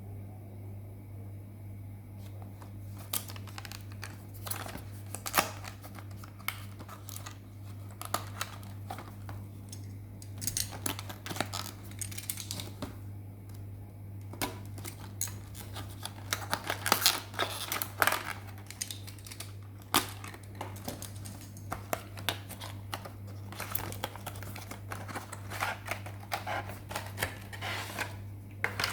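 Product packaging being handled and opened by hand: irregular clicks, taps and crinkles of cardboard and plastic, starting about three seconds in, over a steady low hum.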